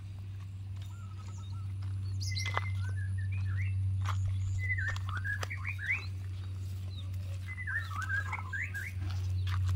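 Small birds chirping in two spells of quick rising and falling notes, with a few sharp clicks, over a steady low hum.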